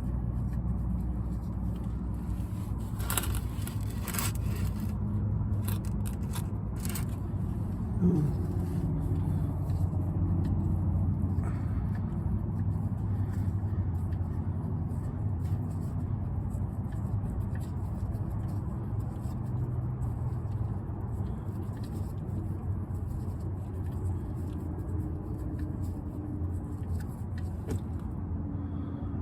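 A wrench clicking and scraping on the oil drain plug bolt as it is loosened, with a few sharp clicks a few seconds in, over a steady low hum.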